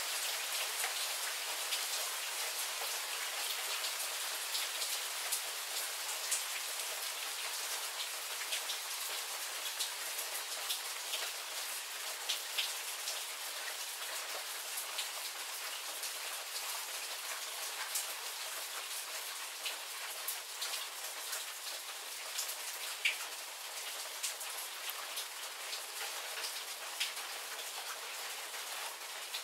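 Steady rain shower falling, with many individual drops striking close by. It eases slightly toward the end.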